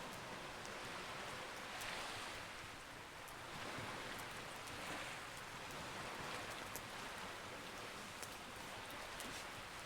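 Campfire crackling with small sharp pops over a steady wash of sea waves that swells and eases every couple of seconds.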